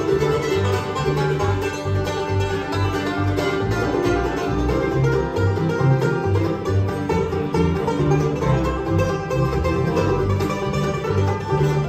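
Bluegrass band playing, banjo prominent among the plucked strings over a steady, evenly paced bass line.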